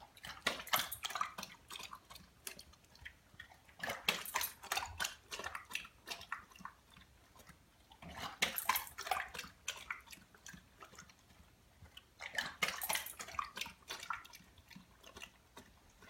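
A dog biting and chewing at the water in its bowl instead of lapping it: wet splashing and snapping of the jaws in four bouts a few seconds apart.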